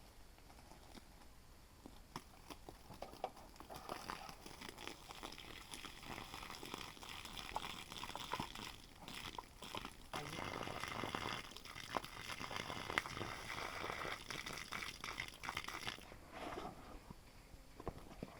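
Rustling and crunching with many small clicks and snaps, building up about four seconds in and dying away near the end.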